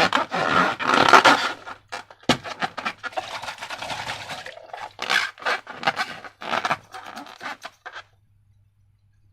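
Slime being squished and worked by hand, sticky crackling and squelching in irregular bursts that stop about eight seconds in.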